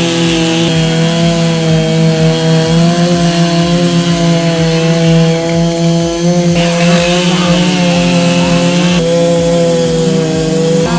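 Two-stroke chainsaw running at full throttle, its pitch sagging slightly now and then as it works through wood.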